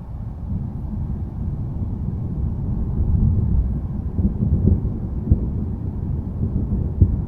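Low rolling thunder rumble that swells over the first few seconds, with two brief sharp peaks in the second half.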